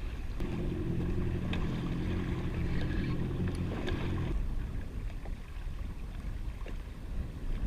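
Yamaha WaveRunner jet ski engine running steadily at low speed for about four seconds, then shutting off, leaving wind and water noise.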